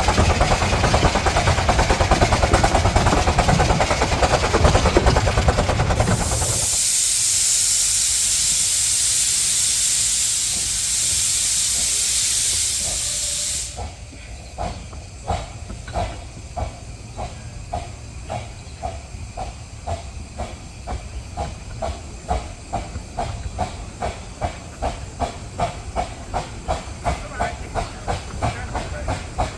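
Miniature steam locomotive: a loud rumbling noise for about six seconds, then steam hissing hard for about seven seconds, cut off suddenly, then the locomotive's exhaust beats at a steady rhythm of about two to three a second.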